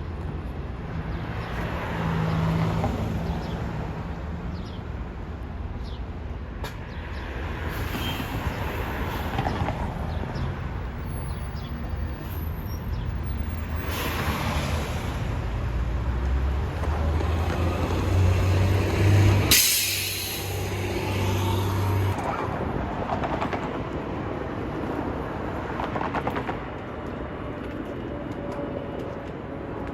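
Heavy transit vehicles and street traffic running past, with a steady low engine hum that swells and fades. A short, loud hiss cuts in a little after two-thirds of the way through.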